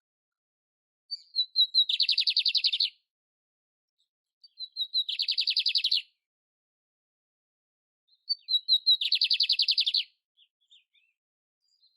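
A canary (the 'canário império' type) singing three short phrases a few seconds apart, each a few clear high notes running straight into a fast rattling trill about a second long.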